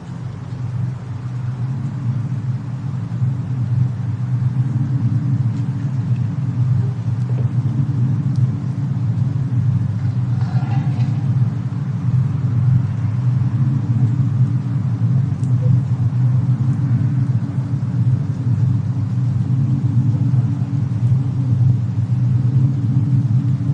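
Fireplace-and-snowstorm ambience: a steady low rumble with a few faint, scattered crackles. It fades in over the first couple of seconds.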